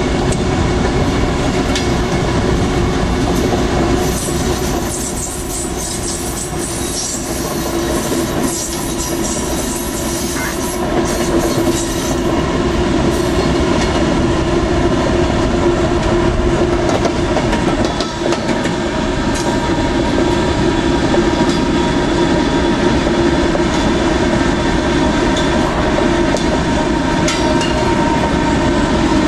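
A train's cars rolling past on the rails, a steady run of wheel clatter, with high wheel squeal for a stretch in the first half.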